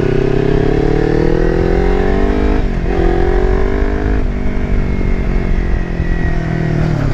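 Kawasaki Versys X300's parallel-twin engine pulling as the motorcycle accelerates. The pitch rises and then drops at upshifts about two and a half and four seconds in, then holds steady at cruising speed, over low wind and road rumble.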